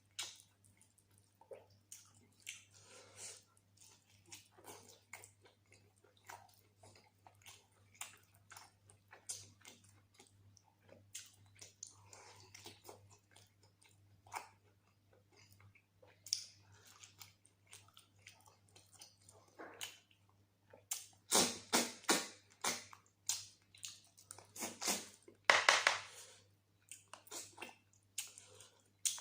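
Close-miked chewing and wet mouth smacks of a person eating mutton curry with rice and gravy, coming in many short clicks and squelches, louder and more frequent about two-thirds of the way through. A faint steady hum runs underneath.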